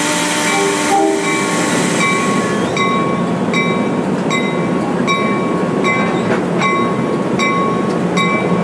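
NJ Transit Coast Line train running past at a level crossing, with a horn chord ending about a second in. A grade-crossing bell dings steadily, a little under twice a second.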